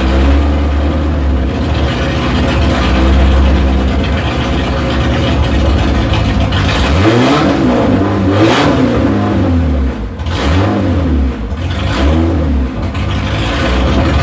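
Opel 2.4-litre stroker four-cylinder engine running on its first start with no muffler: a steady, loud idle for about six seconds, then revved in a series of quick blips, the pitch rising and falling each time. The engine is fresh on fuel injection and still untuned, and sounds loud and rough through the open exhaust.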